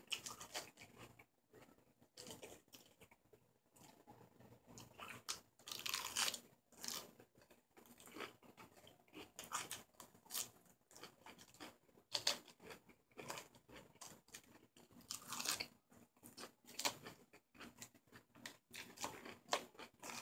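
A person chewing raw lettuce salad with the mouth close to the microphone: crisp crunches coming at irregular intervals as the leaves are bitten and chewed.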